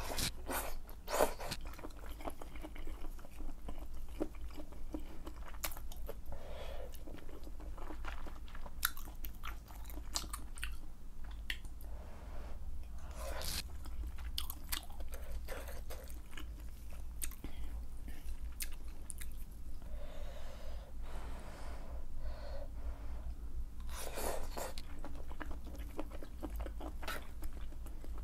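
Close-miked eating of malatang with wide glass noodles: wet chewing and slurping, with sharp mouth clicks coming in clusters every few seconds. A steady low hum runs underneath.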